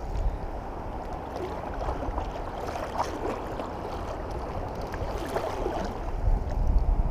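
Shallow river water rippling and lapping around a kayak, with low gusts of wind on the microphone that swell near the end.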